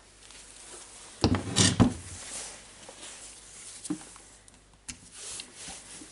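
Hard parts being handled and knocked together: a quick cluster of clattering knocks just over a second in, then a few single clicks and some rubbing.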